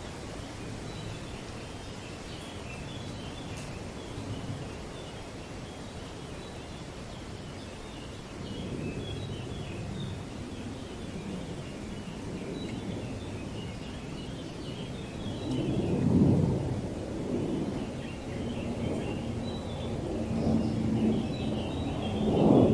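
Wind gusting through trees and buffeting the microphone, with low rumbles that swell about two-thirds of the way in and again near the end. Faint bird chirps run in the background throughout.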